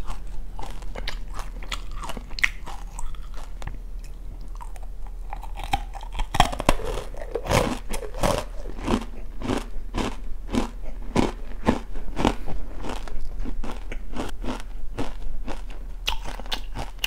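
Close-up crunchy chewing of oranda, a hard Korean snack of small puffed-grain balls bound in syrup. Sharp crunches come in a steady rhythm, growing louder from about six seconds in.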